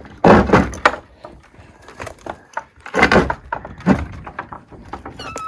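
Wooden clattering and knocking in two loud bouts, one just after the start and one about three seconds in, with a smaller knock soon after.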